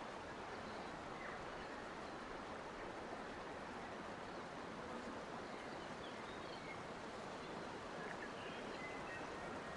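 Forest nature ambience: a steady rushing background noise with faint, short bird chirps scattered through it, a few more of them near the end.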